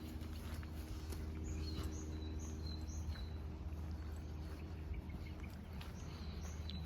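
Small birds calling outdoors: short high chirps repeated every half-second or so, over a steady low background rumble.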